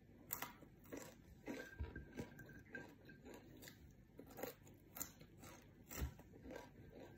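Close-miked crunching and chewing of crispy fried anchovies (dilis) eaten by hand, a run of short, irregular crunches.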